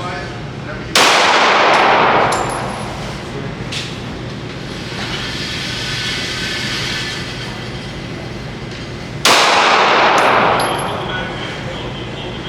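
Two single gunshots about eight seconds apart, each with a long ringing echo that dies away over a couple of seconds, followed by light metallic pings.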